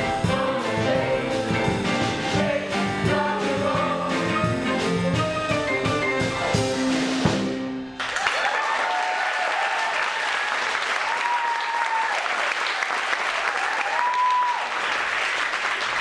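A rock-and-roll song with a band and group singing plays on a steady beat and ends on a held final chord about halfway through. An audience then applauds, with a few whoops.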